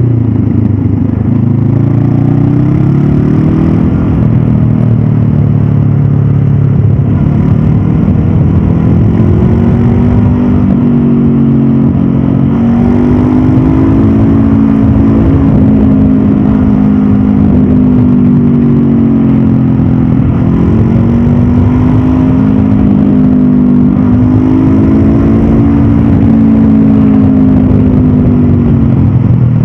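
Stock 2022 Honda CB500F's parallel-twin engine under way, its revs climbing and dropping again and again as the throttle is worked.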